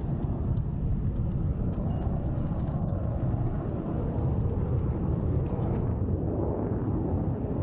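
Single-engine turbofan of a JF-17 Thunder fighter jet heard from the ground as a steady low rumble.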